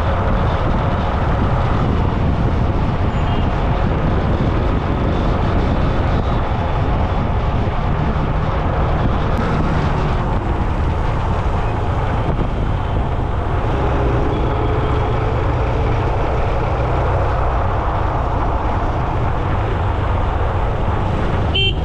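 Steady road traffic noise heard while riding along a road: a continuous loud low rumble of engines and tyres, with vehicles passing.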